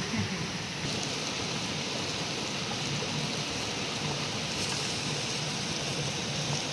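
Steady rush of a flowing river's water, an even noise with no distinct splashes or breaks.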